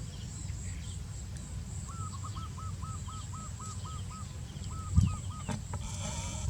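Outdoor ambience with a steady low rumble and a bird calling in quick runs of repeated chirps, about six a second, twice over. A single thump about five seconds in is the loudest sound, and a short pitched call follows near the end.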